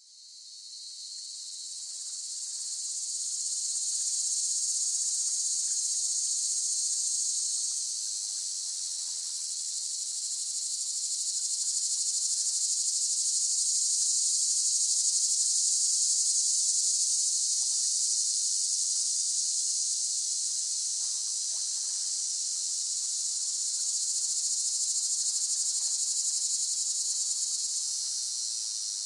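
Cicadas buzzing in a continuous high-pitched drone, fading in over the first few seconds and then holding steady with slow gentle swells in loudness.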